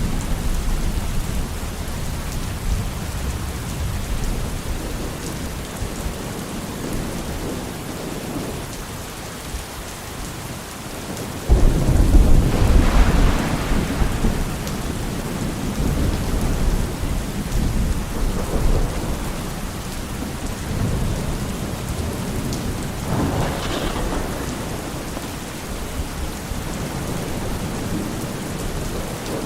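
Steady rain falling in a thunderstorm, with a sudden loud crack and rumble of thunder a little before the middle, and a fainter roll of thunder later on.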